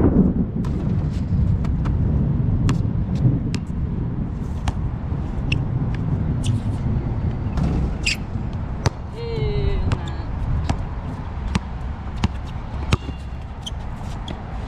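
Basketball bouncing on an outdoor court, irregular sharp thuds spread through, over a steady low rumble. A brief gliding squeak comes about nine seconds in.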